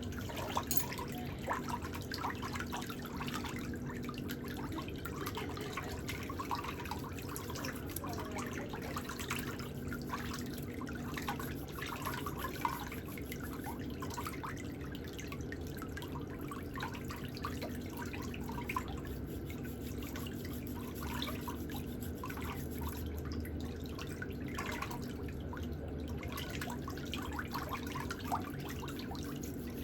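Water dripping and trickling, many small irregular drips over a steady low hum.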